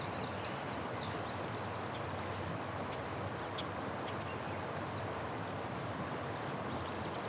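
Small birds chirping and singing, many quick high chirps, over a steady outdoor background hiss.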